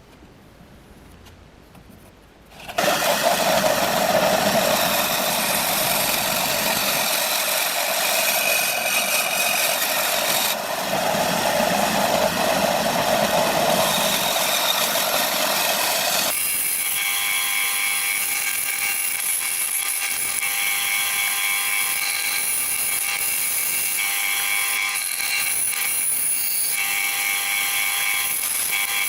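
An electric power tool switches on about three seconds in and runs steadily. About halfway through its sound changes to a steadier whine with a few fixed tones, as if it is now working the material differently.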